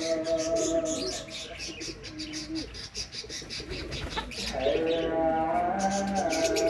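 A mix of birds calling together: quick high chirps over lower, held cooing calls, thinning out for a moment about halfway through before filling in again.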